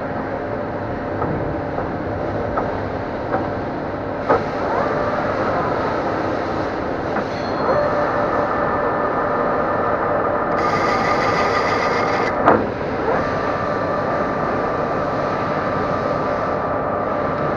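Metal lathe running with a steady gear whine and clatter while taking cleaning passes over a nut's threads. A few sharp knocks stand out, the loudest about three-quarters of the way through, and a higher hiss joins briefly just before it.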